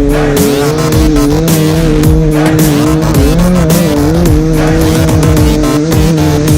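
Motocross bike engines running hard in a race, with music playing over them.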